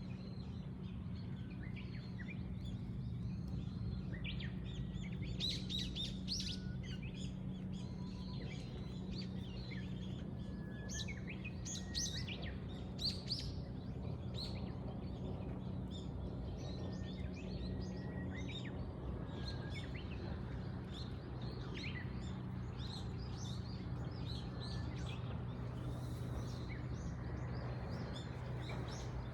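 Several birds chirping and singing, with many short, overlapping calls throughout. Underneath is a steady low hum.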